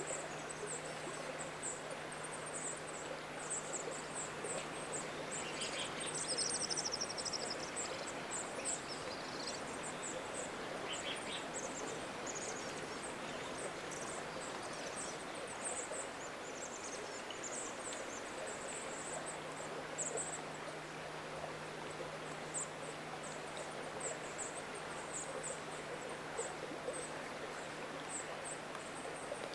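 Steady hiss of rain in a wet forest, with thin, very high-pitched calls of small birds scattered through it and a short burst of calls about six seconds in.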